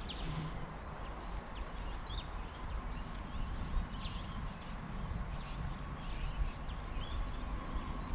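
Scattered short bird chirps over a steady low rumble, with no train passing.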